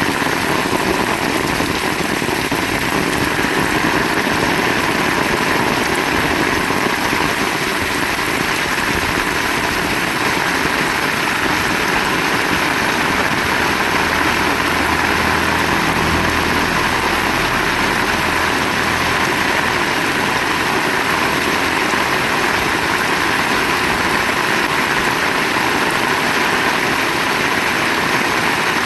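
Heavy rain pouring steadily. A low rumble comes in for a few seconds about halfway through.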